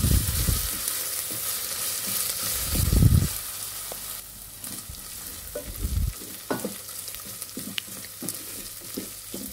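Sliced onions and ginger-garlic paste sizzling in hot oil in a stainless steel pot while being sautéed, stirred with a wooden spatula that scrapes against the pot. There are a few louder scrapes near the start, about three seconds in and about six seconds in. The frying grows quieter after about four seconds, leaving scattered light clicks of the spatula.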